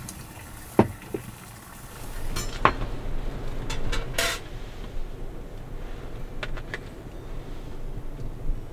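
Cookware and utensils handled: scattered sharp knocks and clinks, a few brief scraping sounds, over a steady low rumble.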